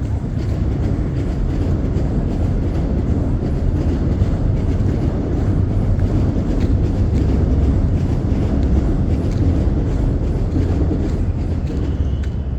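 Low, steady rumble of a passing train that swells to its loudest about eight seconds in and then eases off.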